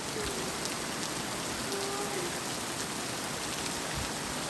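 Heavy rain falling, a steady even hiss with scattered drop ticks.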